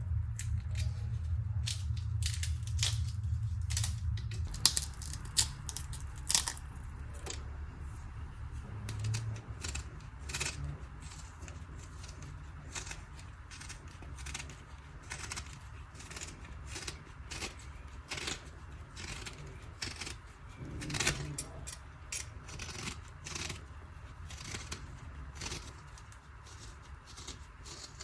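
Kitchen handling sounds while cooking: scattered clicks, taps and light knocks of utensils and containers, with a low hum that drops away about four seconds in.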